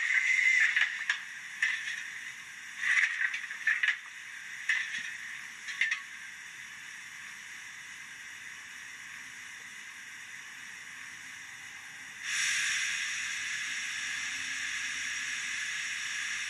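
Steam hiss effects from the DCC sound decoder of an Accurascale J68 0-6-0T model steam locomotive: a loud hiss cuts off under a second in, a handful of short, irregular hisses follow, then a softer steady hiss, and about twelve seconds in a louder steady hiss starts up.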